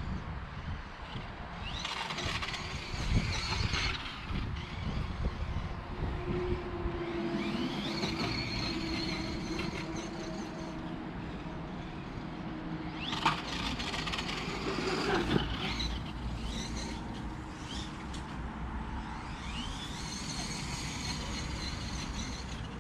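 Brushless electric motor of an RC truck (Dynamite Tazer 3000kV on a 2S LiPo) whining up in pitch in four acceleration bursts, over a steady low rumble, with a few sharp knocks partway through.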